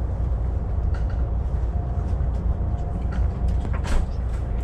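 Interior noise of a Siemens S-103 high-speed train running, heard inside the passenger coach: a steady low rumble with a faint steady hum, and a few light knocks and rattles, the sharpest near the end.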